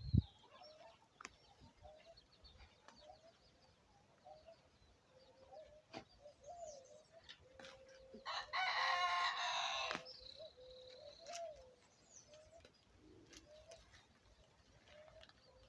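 A rooster crows once, a harsh call of about a second and a half a little past halfway through, over faint intermittent clucking and chirps from the yard fowl.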